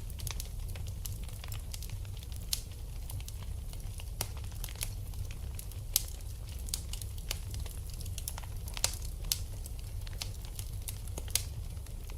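Wood fire in a fireplace crackling, with irregular sharp pops over a steady low rumble. The loudest pop comes about six seconds in, with others a little before and near the end.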